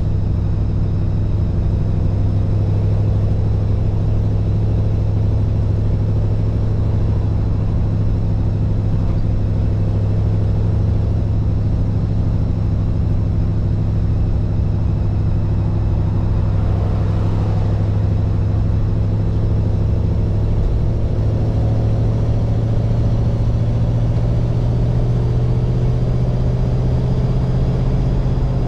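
1948 Mercury's 239-cubic-inch flathead V8 running steadily while the car is driven. About two-thirds of the way in, its pitch climbs slightly as the revs rise.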